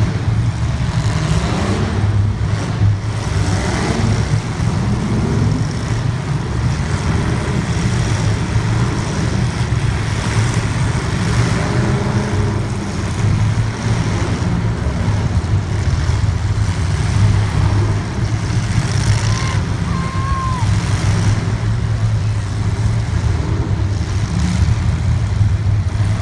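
Race car engines running hard and steady through a feature race, with the revs rising and falling a couple of times in the first few seconds.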